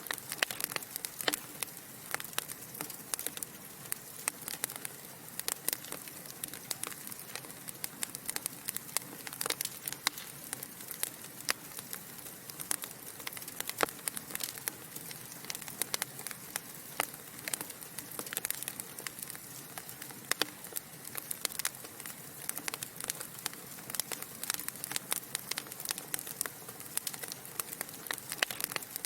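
Wood fire burning in a fireplace: a steady stream of irregular sharp crackles and pops over a soft hiss, with no lull.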